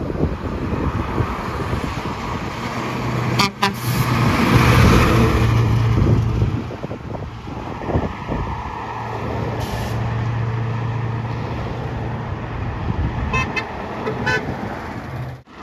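A passing truck's engine drone with road noise, and a horn sounded for a few seconds about four seconds in. The drone comes back steadily and cuts off abruptly just before the end.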